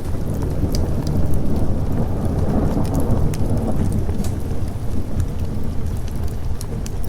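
Thunder rumbling long and deep over steady rain, swelling to its loudest a second or two in, with sharp ticks of drops throughout.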